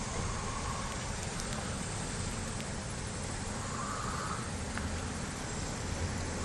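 Steady outdoor background noise: an even hiss over a continuous low rumble.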